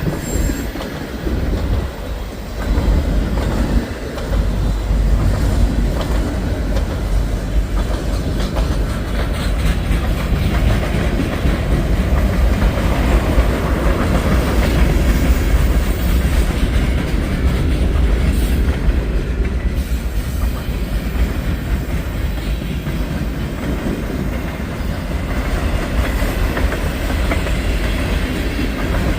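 A mixed-freight manifest train rolling past at close range: a steady heavy rumble with the clickety-clack of steel wheels over the rail joints.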